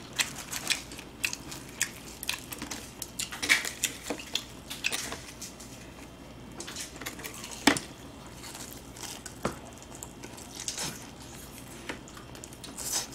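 Chewing and biting on battered fried chicken, with scattered sharp crackles and small clicks from utensils and dishes; one louder snap comes about halfway through.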